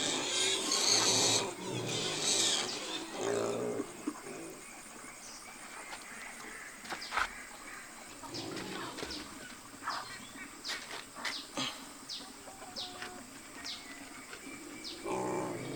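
Pigs squealing in two loud harsh bursts near the start, then grunting, followed by a scatter of short high chirps.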